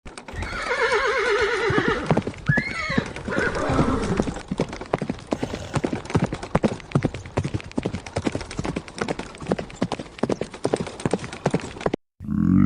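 A horse neighs with a wavering, shaking whinny, then its hooves clip-clop on hard ground in a long run of quick knocks. The hoofbeats stop abruptly near the end.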